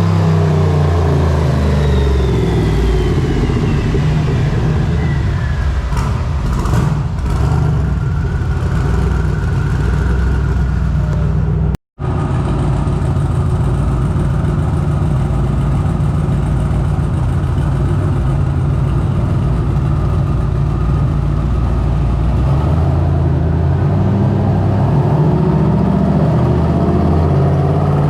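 Turbocharged LS V8 on a hub dyno, its pitch falling as it winds down from a wide-open pull, then running steadily low before rising again in the last few seconds as the next pull begins. The sound cuts out for an instant a little under halfway.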